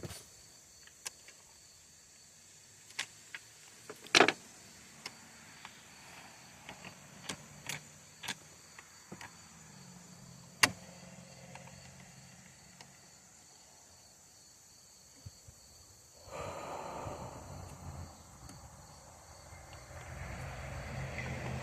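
Scattered light clicks and knocks of small parts and tools being handled while a chainsaw is reassembled. About sixteen seconds in, a steady mechanical noise starts suddenly, with a low hum joining it near the end.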